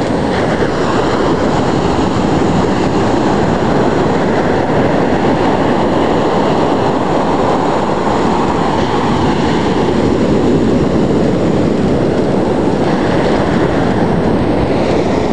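Ocean surf breaking on the beach, a steady loud rush of waves, mixed with wind on the microphone.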